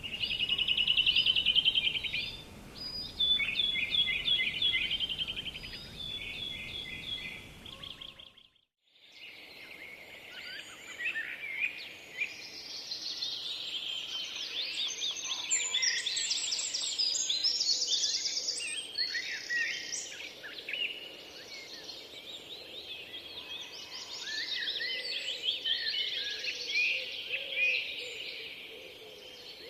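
Wild songbirds singing in a chorus. For the first eight seconds one bird sings a loud, fast, repeated trill. The sound cuts out briefly about eight and a half seconds in, then returns as many overlapping songs and chirps.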